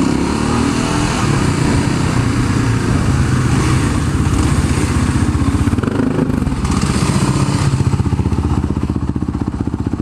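Dirt bike engine running close to the camera, revved up and eased off a few times as the bike is ridden.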